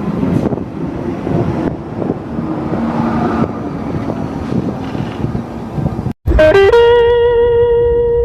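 A steady rumbling train noise, cut off abruptly. It is followed by a loud held musical note that slides up at its start and rings out.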